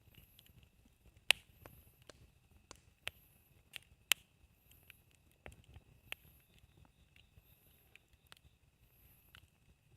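Wood campfire crackling: irregular sharp pops and snaps of burning wood, with two louder cracks about a second in and about four seconds in, over a faint steady high tone.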